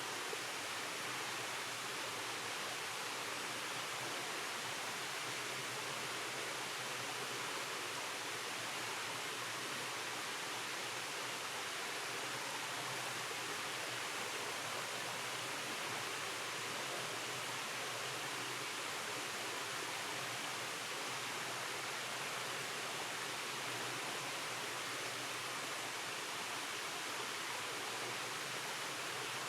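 Rainforest stream cascading over rocks, a steady rushing of water with no change.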